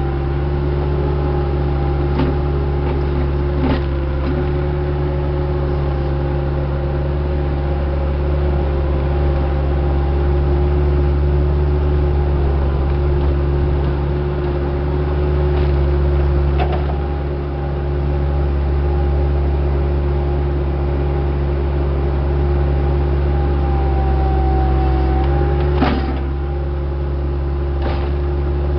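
Diesel engine of a piece of heavy equipment running steadily at an even speed, with a few short knocks and clanks over it.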